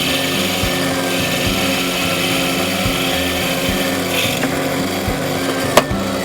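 A power tool working wood: a steady, noisy whir that starts abruptly, with a sharp click near the end. Background music plays underneath.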